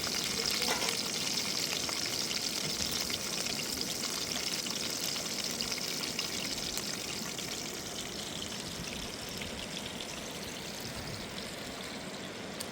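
Food frying in a hot pan: a steady sizzle with fine crackling spatter that eases off slightly toward the end.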